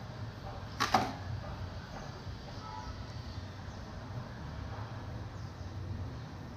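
A single sharp click or knock about a second in, over a steady low background rumble.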